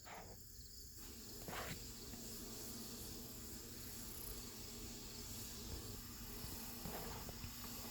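Faint steady background noise: a high hiss over a low hum, with a couple of small ticks.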